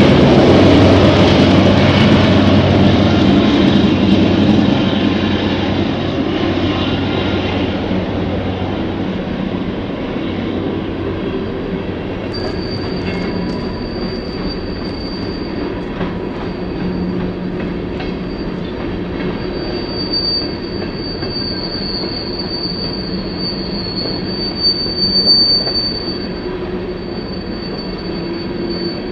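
Empty Union Pacific coal train's steel hopper cars rolling past. The lead diesel locomotives' low rumble fades over the first several seconds. From about twelve seconds in, a thin high wheel squeal comes and goes as the cars' wheels grind through the curve.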